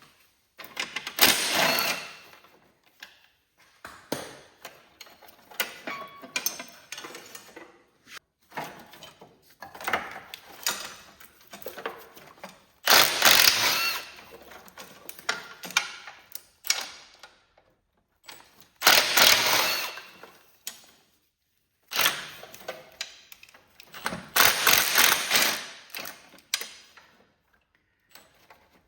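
Hand tools working on a garden tractor's fittings: repeated stretches of metal clicking and rattling, each a second or two long, with short pauses between them.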